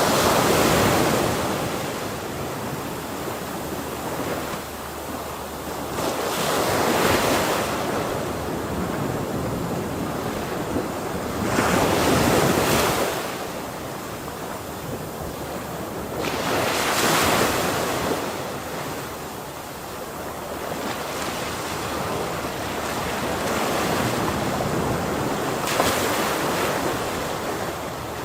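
Ocean waves breaking on the shore, each wave swelling up and washing out about every five seconds over a steady surf hiss, with some wind noise on the microphone.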